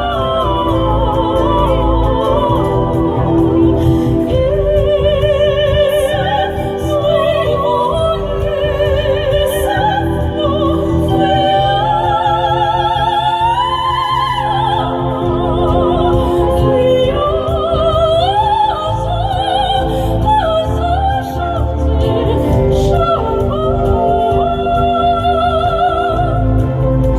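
Two sopranos singing in operatic style with wide vibrato, their voices sometimes moving together in harmony, over an instrumental accompaniment with a steady bass.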